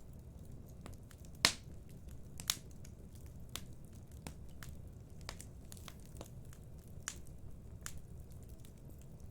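Wood fire in a fireplace crackling, with irregular sharp pops over a low steady rumble of burning; the loudest pop comes about a second and a half in, another about a second later.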